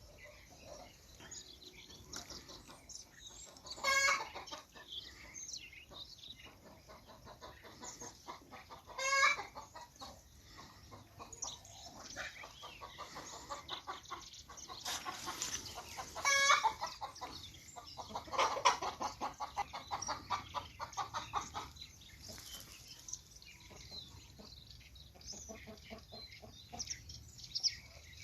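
Chickens clucking in a farmyard, with a quick run of clucks a little past the middle and three short, loud squawking calls spread through.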